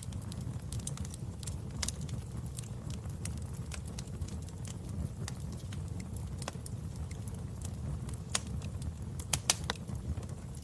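Wood fire burning in a fireplace: a steady low rumble with scattered sharp crackles and pops, and a few louder pops about nine seconds in.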